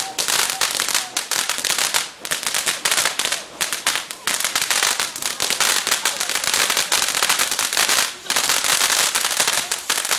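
Fireworks crackling: a dense stream of rapid small pops, with short breaks about 2, 4 and 8 seconds in.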